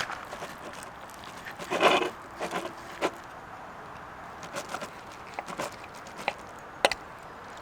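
Wood fire grilling a tomahawk steak: a steady hiss with scattered sharp crackling pops, and a louder metallic clatter about two seconds in.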